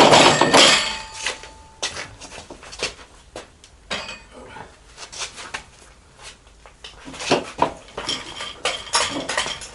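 Metal clanking and clinking as steel tools and drivetrain parts are handled while a transfer case is fitted to a gearbox. A loud clatter comes in the first second, then scattered knocks, which grow busier near the end.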